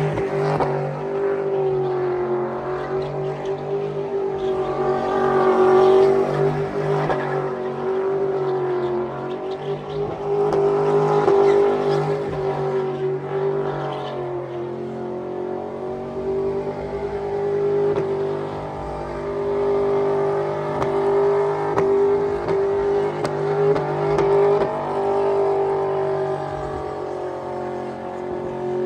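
Vehicle engine held at high, nearly constant revs for a long stretch, its pitch wavering slightly up and down.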